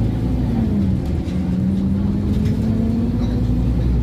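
Scania OmniCity N230UD double-decker bus under way, heard from on board: its five-cylinder diesel engine and driveline give a steady drone over road noise, dipping briefly about a second in before holding steady again.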